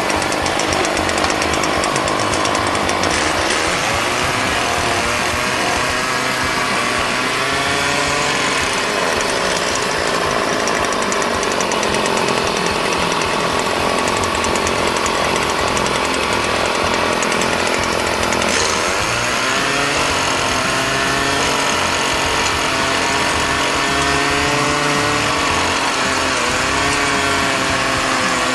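A loud machine engine running steadily, its pitch rising and falling a few times.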